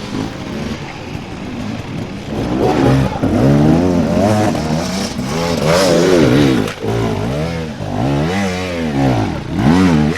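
Dirt bike engine revved again and again, its pitch rising and falling in quick repeated swells.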